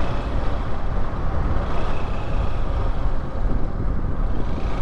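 A motorcycle on the move: steady wind buffeting on the microphone over the running engine and road noise.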